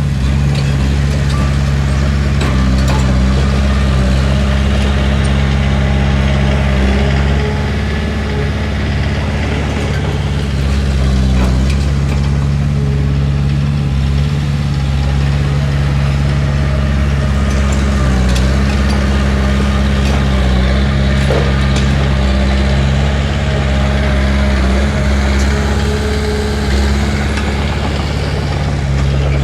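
Heavy diesel engine of an earthmoving machine running steadily at an even speed, with a few brief knocks along the way.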